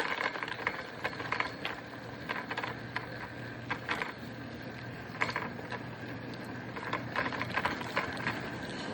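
Bicycle rattling and clicking as it is ridden, with irregular sharp clicks over a steady background hiss.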